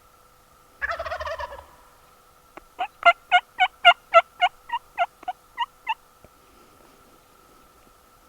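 Merriam's wild turkey gobble, a short rattling call about a second in. It is followed by a louder run of about a dozen turkey yelps, about four a second, which stop about six seconds in.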